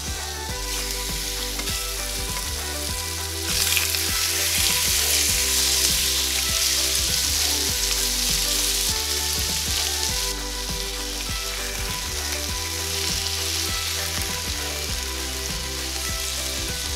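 Chicken pieces sizzling as they fry in hot oil in a non-stick frying pan, stirred with a spatula. The sizzle gets louder about three and a half seconds in and eases a little about ten seconds in.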